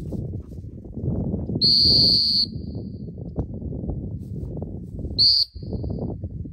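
Dog-training whistle blown at a retriever: one long blast about one and a half seconds in, then a short blast near the end. These are stop whistles, meant to halt the dog as it runs. A low rushing noise runs underneath.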